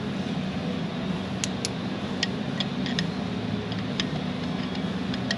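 Scattered light metallic clicks and ticks of a small retaining ring being set straight in a diesel injector cup, over a steady low hum.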